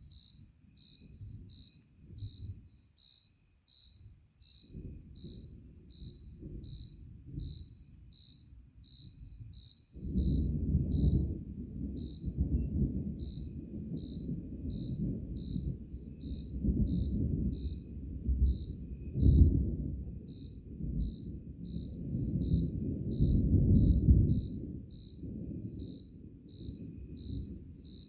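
Thunder rumbling: a faint, patchy rumble swells suddenly about ten seconds in and rolls on in several peaks before dying down near the end. Throughout, a cricket chirps steadily about twice a second.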